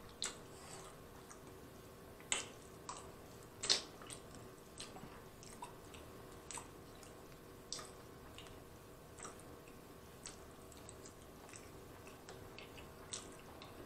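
A person chewing a mouthful of macaroni and cheese: faint, wet mouth clicks and squishes at irregular intervals, a couple of louder ones about two and a half and four seconds in.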